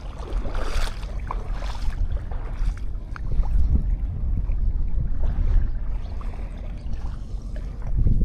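Small sea waves washing onto a sandy beach in a steady, swelling wash, with wind buffeting the microphone as a low rumble.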